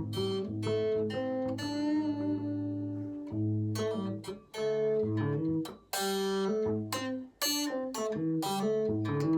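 Acoustic guitar playing a blues instrumental: picked notes and chords over a recurring low bass note, with a few short breaks between phrases.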